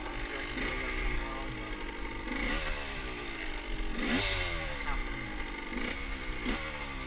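Motorcycle engine being ridden, the revs jumping up sharply and then winding down several times, like repeated throttle openings and roll-offs.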